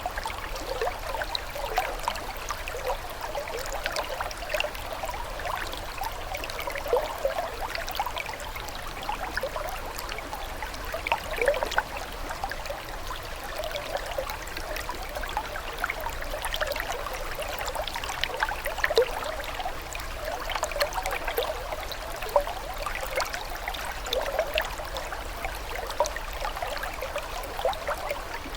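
Running water trickling and gurgling steadily, with many small irregular splashes and bubbles, over a faint low hum.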